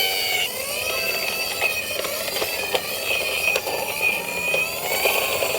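Toy ambulance's built-in electronic sound unit playing a high, slowly wavering synthetic tone, with scattered light clicks from the plastic toy.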